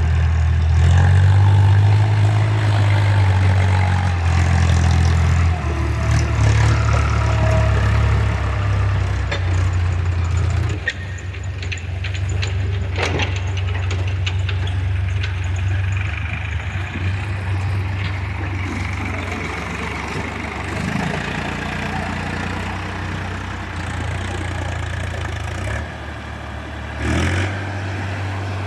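Eicher tractor's diesel engine running while its hydraulics tip a trailer load of soil, the engine note shifting a few times. Scattered clicks and knocks come through in the middle, and a brief louder burst comes near the end.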